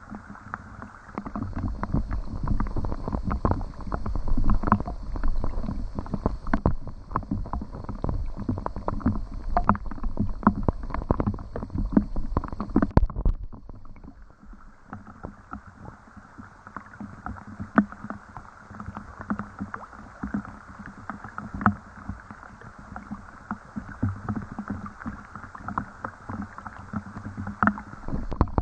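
Rain with water splashing and lapping: a dense patter of small drips and splashes over a steady hiss. About halfway through the sound changes abruptly, and a heavy low rumble underneath drops away, leaving lighter dripping.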